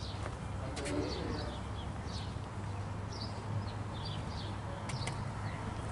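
Birds chirping: short, high, downward-sliding calls scattered through, over a steady low hum.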